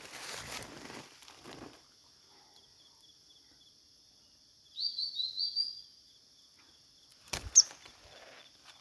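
A small bird gives a quick run of four rising chirps about five seconds in, over a steady high-pitched insect drone. Rustling in leaves and brush at the start and again near the end, with one sharp click.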